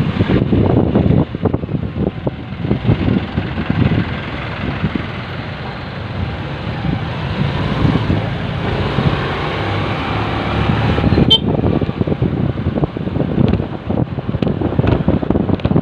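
Road and traffic noise heard from a moving motorcycle in city traffic: a steady engine-and-road rumble with an uneven, gusting low end. A brief sharp high sound cuts in about eleven seconds in.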